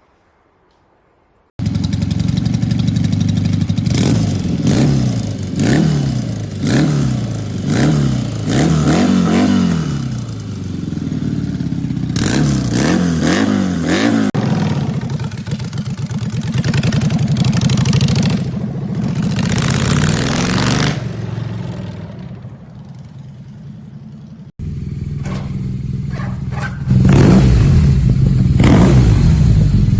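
Motorcycle engine with a loud exhaust being revved again and again, its pitch rising and falling about once a second. After a sudden cut it runs on with more revs, loudest near the end.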